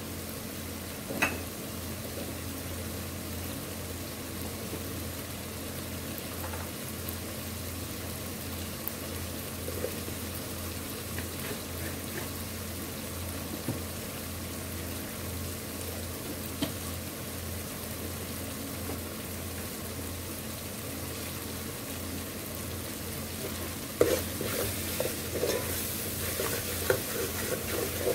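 Onion-tomato masala frying gently in oil in a metal pot, a faint steady crackle over a low hum. About four seconds before the end, a metal spoon starts stirring and scraping around the pot with a run of knocks.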